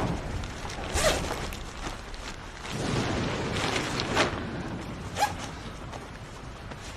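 Rustling and handling sounds, like cloth and movement, with a few sharp clicks: one about a second in, and two more near 4 and 5 seconds.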